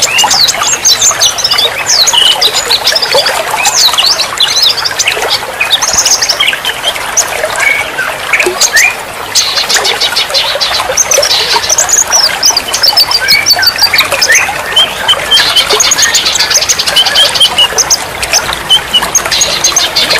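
Several songbirds calling and singing at once: a dense, unbroken mix of short whistles, chirps and squawks, with fast rattling trills around the middle and again near the end.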